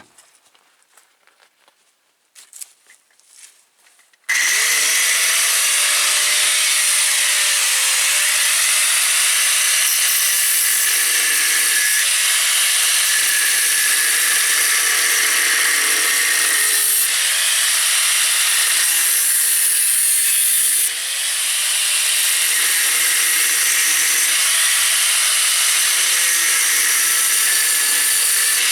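Faint quiet sounds, then about four seconds in a loud power tool starts abruptly and runs continuously. Its tone sags and recovers every few seconds as it is worked against the job.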